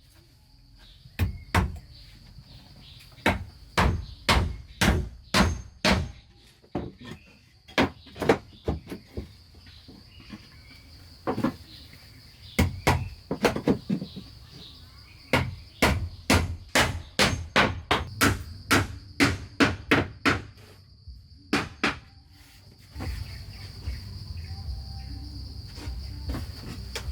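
Repeated blows of a hand tool on wood, in runs of about two strikes a second with short pauses, over the steady high chirring of crickets. The blows stop shortly before the end, and a steady rushing noise rises.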